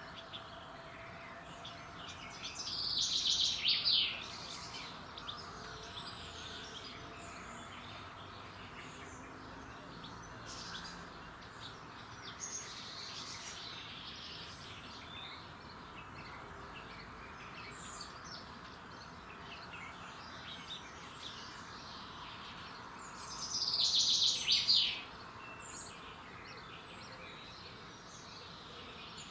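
Early-morning birdsong: many birds chirping at once over a steady outdoor background, with two louder song phrases, one about three seconds in and one near the end.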